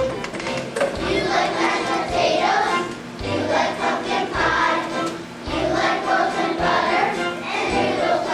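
Children's choir singing a song with instrumental accompaniment, the low notes of the backing coming in regular pulses.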